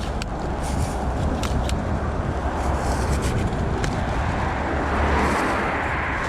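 Road traffic passing close by, one vehicle swelling loudest about five seconds in, with wind rumbling on the microphone and a few light clicks.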